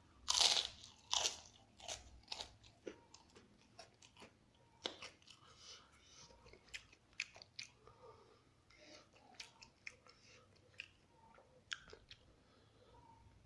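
Close-miked eating of egg geprek (crispy battered fried egg) with rice: two loud crunchy bites in the first second and a half, then steady chewing with small irregular clicks and crackles.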